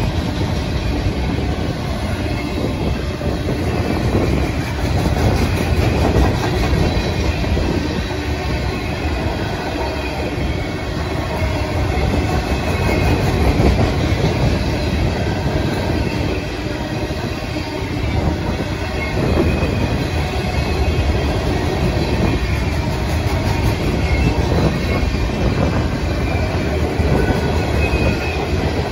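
Freight train flatcars rolling steadily past at close range: steel wheels running on the rails with a continuous rumble and a faint, high wheel squeal.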